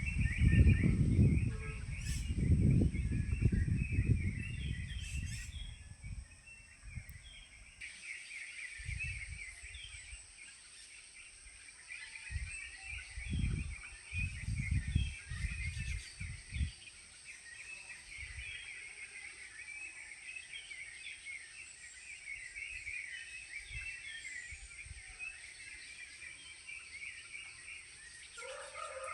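Dense, continuous chirping of many small birds, with low rumbles in the first few seconds and again around the middle. A rooster starts crowing right at the end.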